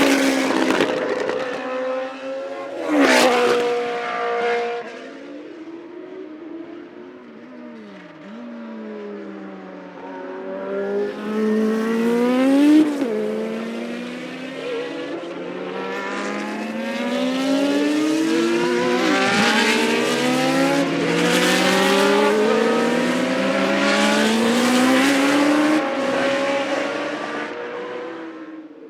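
Classic Formula 1 racing car engines at high revs. Two cars scream past in quick succession near the start. Later an engine accelerates hard through the gears, its pitch climbing and dropping back at each upshift, again and again.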